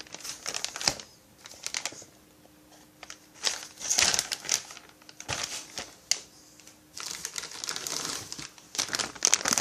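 Plastic packaging crinkling and rustling, with irregular light clicks and knocks of small parts being handled, coming in bursts.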